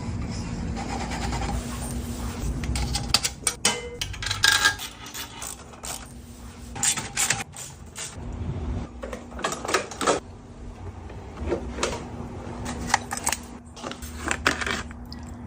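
Metal tools and parts clinking and clattering in irregular sharp knocks, over a steady low hum.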